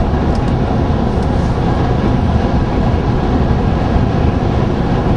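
Steady, loud road and wind noise inside a moving car.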